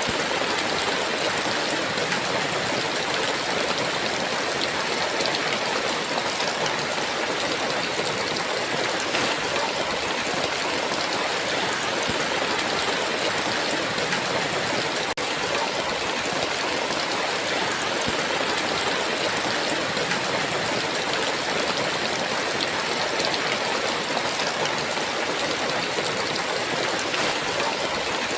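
Heavy rain pouring down in a steady, dense hiss with a fine patter of drops.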